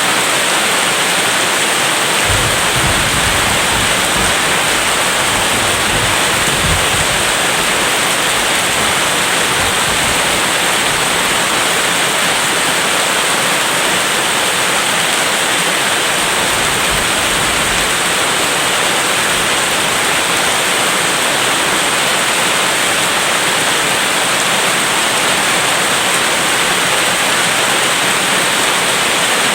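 Steady heavy rain, a dense even hiss. Faint low rumbles, distant thunder, come about two to seven seconds in and again around sixteen to eighteen seconds.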